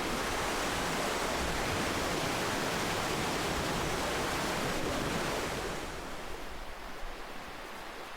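Ocean surf: a wave washing in with a loud, steady rush, then drawing back and fading to a softer hiss about two-thirds of the way through.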